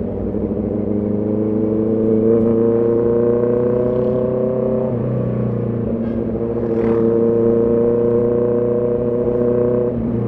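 Honda CB650R's inline-four engine pulling under acceleration, its pitch climbing steadily. It drops suddenly with an upshift about halfway through, then climbs again until another shift near the end.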